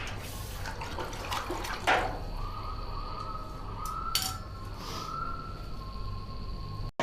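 Hot forged iron quenched in water, sizzling and bubbling, with two sharp metal clinks. The sound cuts off suddenly near the end.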